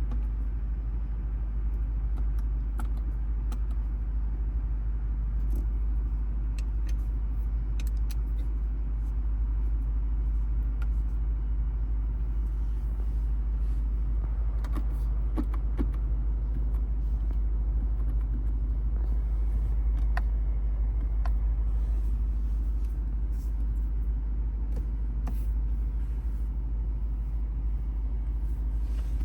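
2024 Lexus IS 500 F Sport running with a steady, unchanging low rumble, with scattered light clicks.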